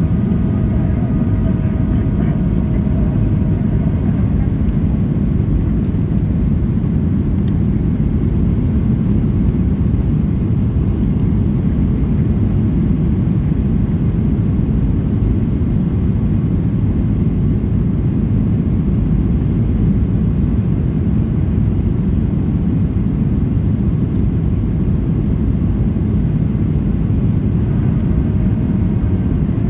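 Steady cabin noise inside a Boeing 737-800 in flight: an even, deep rumble of its CFM56 jet engines and the airflow over the fuselage, with no change in level.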